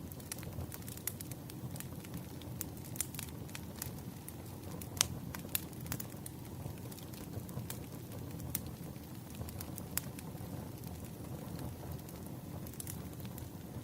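Wood fire crackling: irregular sharp pops and snaps over a low steady rumble, the loudest pop about five seconds in.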